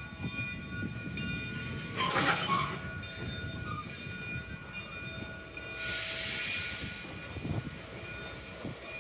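Railroad cars and a caboose easing along slowly and stopping, with a low rumble and a steady whine. A short sharp burst comes about two seconds in, and a loud hiss of air follows about six seconds in.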